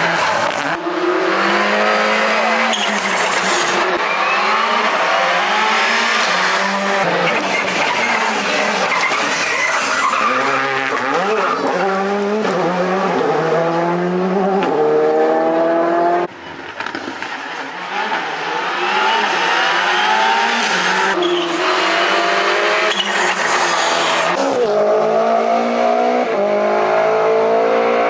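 Rally cars driven flat out on a special stage, engines revving hard and shifting gear, the pitch climbing and dropping again and again as they accelerate and brake. The sound drops away briefly about sixteen seconds in, then the revving resumes.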